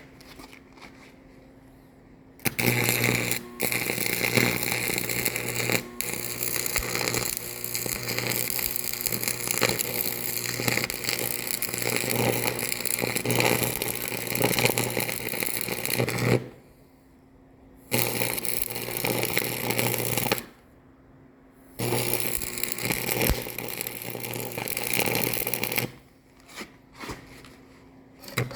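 A loud machine or power tool running in three long bursts with a steady low hum under a noisy hiss, stopping briefly between bursts.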